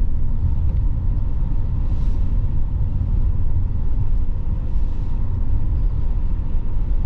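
Steady low rumble of a car driving at low speed, engine and tyre noise heard from inside the cabin, with a faint hiss about two seconds in and again near five seconds.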